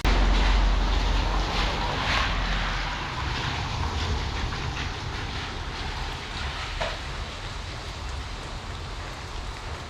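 Wind rumbling on the microphone over a steady rainy outdoor hiss, loudest in the first couple of seconds and then easing off.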